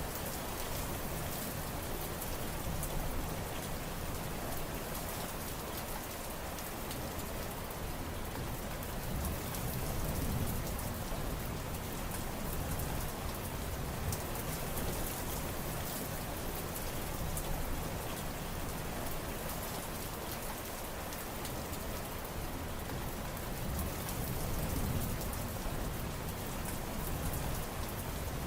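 Steady rain falling: a dense, even hiss of countless drops with fine pattering, swelling slightly a couple of times.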